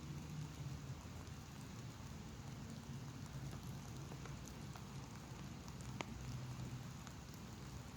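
Light rain sprinkling: a faint, steady patter of drops over a low hum, with one sharp tick about six seconds in.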